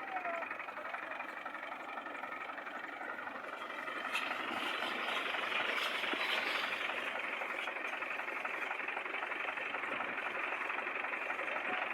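Fiat tractor's diesel engine running steadily, growing louder about four seconds in.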